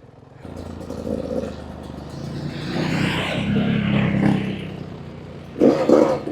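Dirt bike engine running, swelling louder around the middle and then easing off.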